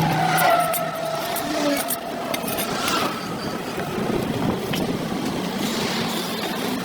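Road traffic going by on a highway. In the first two seconds one vehicle's engine note falls in pitch as it passes.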